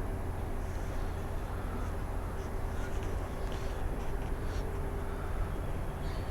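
Steady outdoor background rumble with a few faint, short bird calls.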